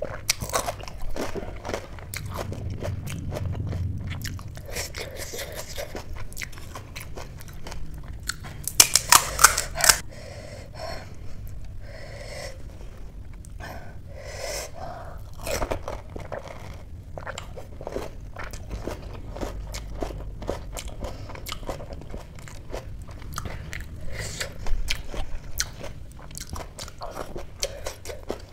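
Close-miked eating of pani puri: crisp puri shells crunching and crackling between the teeth, with wet chewing between bites. A loud cluster of crunches comes about nine seconds in.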